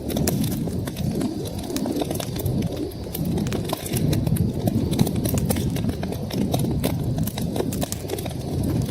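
Wood fire in a fireplace crackling: frequent sharp pops and snaps at an uneven pace over a steady low rumble of the flames.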